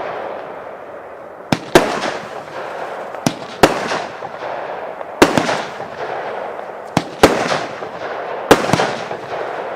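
Royal Fireworks 'China by Night' firework going off: sharp bangs, mostly in pairs, about every one and a half to two seconds, each trailing off in a fading crackle.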